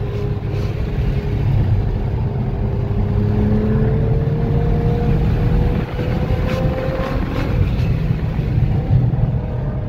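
Car engine and road noise heard from inside the cabin at track speed. The engine note climbs slowly as the car accelerates, with a brief dip about six seconds in.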